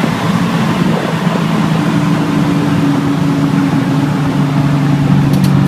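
Twin-turbocharged LS3 V8 of a 2006 Pontiac GTO running steadily, a constant low rumble.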